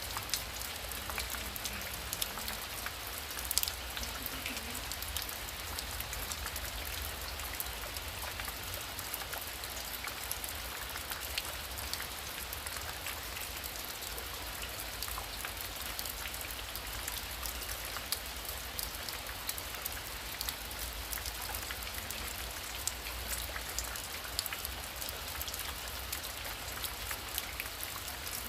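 Heavy rain falling steadily, a dense patter of drop impacts over a low rumble, with one sharper tap about three and a half seconds in.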